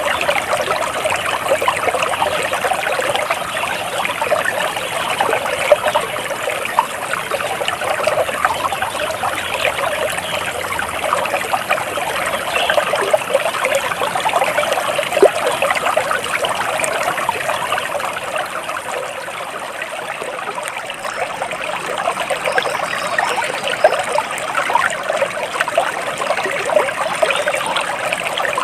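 Water trickling and splashing steadily, like a small stream running over stones, with a dense, even patter of little splashes.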